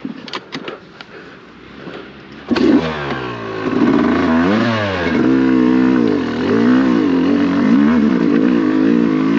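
A few sharp clicks, then about two and a half seconds in a dirt bike engine comes in suddenly and loud and runs on, revving up and down in pitch.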